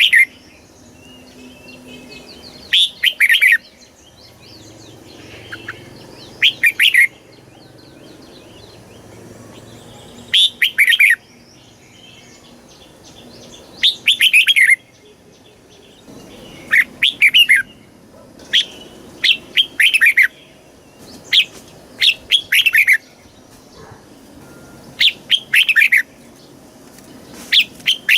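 Red-whiskered bulbul singing: loud, short warbled phrases about a second long, repeated every few seconds, with fainter chirping in between.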